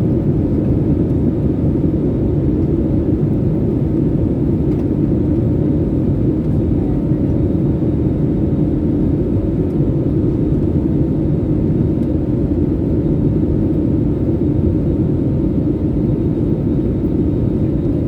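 Steady low rumble of an Airbus A320's engines and airflow, heard inside the passenger cabin, with a faint steady hum above it.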